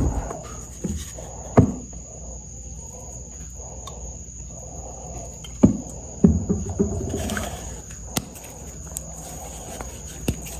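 Reformed gym chalk being crushed and crumbled by hand: several sharp cracks, the loudest about a second and a half in and near the middle, among soft crumbling.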